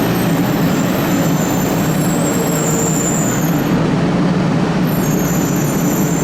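500 series Shinkansen train at the platform, a steady, loud mechanical rumble with thin high whines above it.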